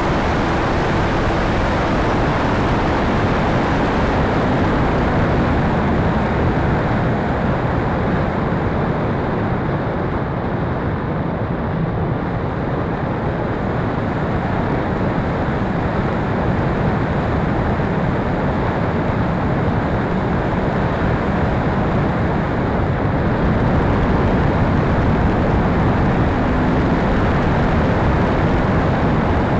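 Steady rushing air noise, with a faint hum at the start and again near the end.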